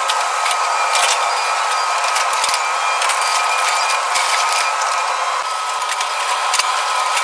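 Machinery running with a steady whine, broken by scattered clicks and knocks.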